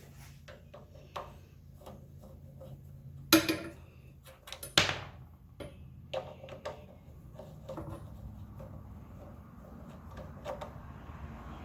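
Metal tools and parts clinking and knocking, with scattered light clicks and two louder sharp knocks around the middle.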